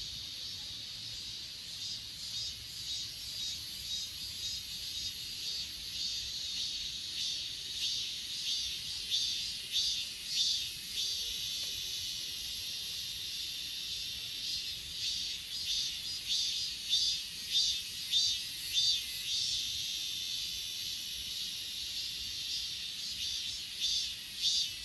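Chorus of crickets and other grass insects trilling steadily, with a pulsing chirp that becomes more prominent through the second half.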